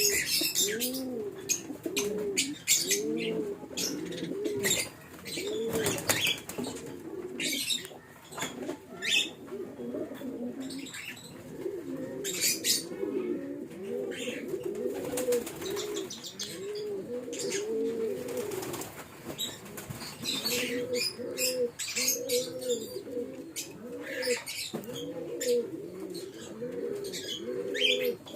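Pigeons cooing over and over, several birds overlapping in low rolling coos, with scattered sharp clicks and flutters.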